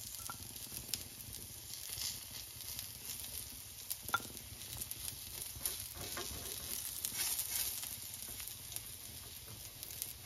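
Chicken tikka pieces on skewers sizzling in hot oil in a frying pan, a steady hiss with scattered small crackles and pops, as fresh oil is brushed over them.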